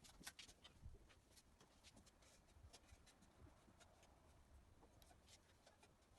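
Near silence with faint, scattered light clicks and scratching, like small objects being handled in a small room.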